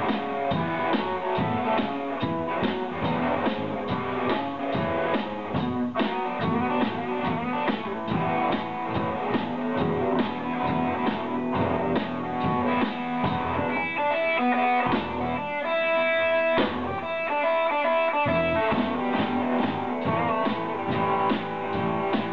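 Live rock band playing: guitar with bass and drum kit. A higher lead guitar line stands out about two-thirds of the way through.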